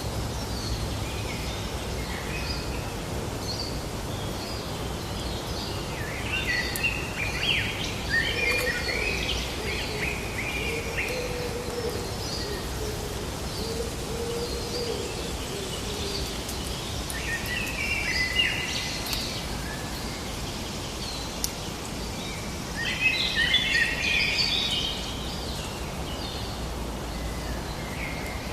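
Wild birds singing in three spells of quick, chattering song over a steady outdoor background noise.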